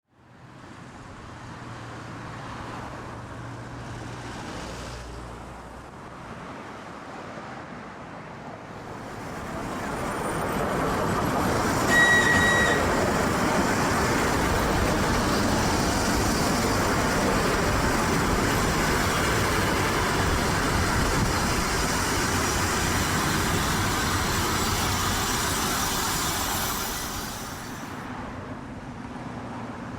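Suburban electric train approaching and running past with a steady rushing rumble that builds, holds for about fifteen seconds and falls away near the end. A short, high horn toot sounds as the noise peaks.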